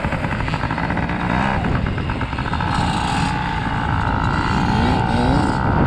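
Motocross dirt bike engine running hard on the track, revving up and easing off, its pitch climbing twice.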